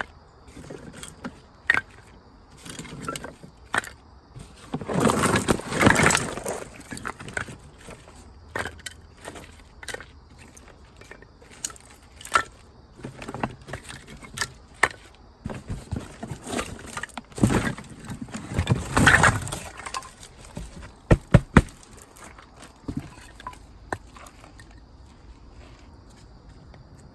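Objects being handled by hand: scattered clicks and knocks, with two longer bursts of scraping or rustling about five and nineteen seconds in, and three quick sharp knocks a little after twenty-one seconds.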